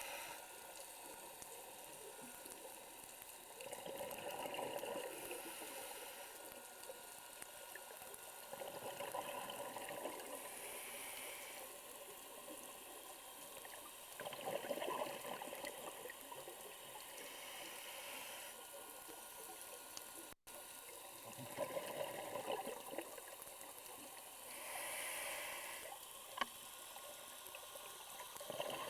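Scuba diver's exhaled bubbles gurgling up from the regulator underwater, in bursts about every five seconds over a steady hiss.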